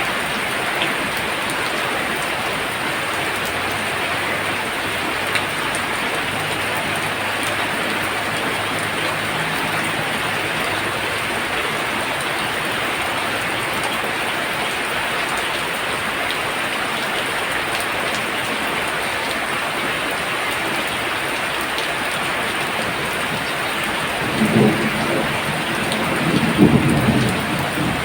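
Heavy rain pouring steadily. About three-quarters of the way through, a rumble of thunder lasts a few seconds.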